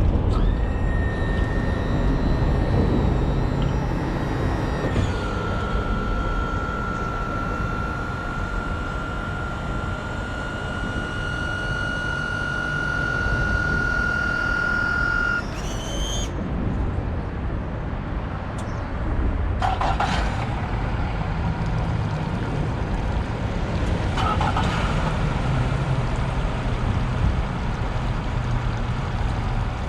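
Yamaha Luxia boat's engine running steadily, with a high steady electronic tone over it that drops to a lower pitch about five seconds in and stops about halfway through. A couple of brief knocks come later.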